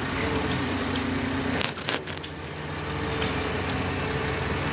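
Excavator engine running with a steady whine, and a short burst of sharp cracking and crunching about two seconds in, as something is crushed or broken.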